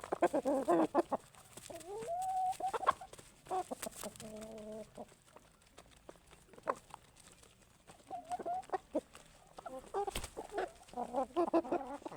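Asil chickens clucking in quick clusters of short calls, with a longer gliding call about two seconds in and a held, steady call about four seconds in. A sharp click about ten seconds in.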